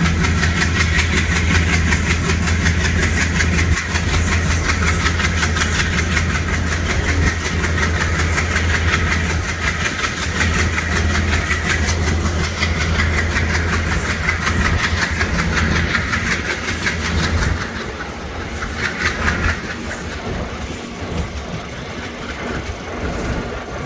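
Train running on the track, its wheels clicking and clacking over the rails, with a steady low engine hum that drops away about three-quarters of the way through.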